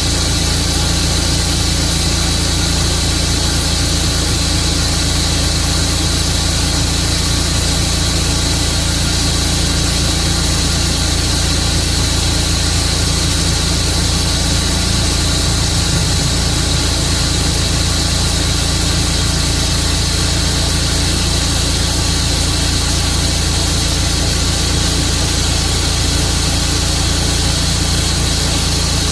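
An engine running steadily at one even speed, without revving or load changes.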